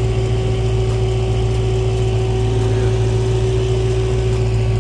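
Car engine idling steadily, a constant low drone with a steady hum above it.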